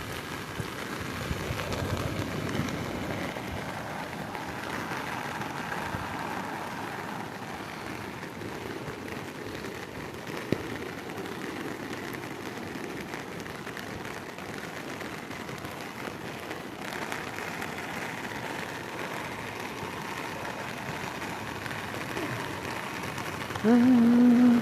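Heavy rain falling, a steady even hiss, during flooding. A brief, loud pitched sound comes near the end.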